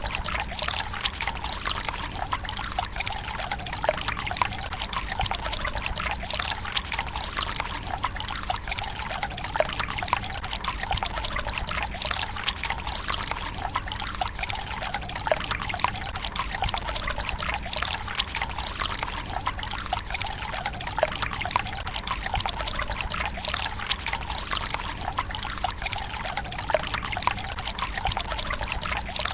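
Water pouring from a bamboo spout into the stone basin of a Japanese tsukubai, a steady trickle and splash with many small drips.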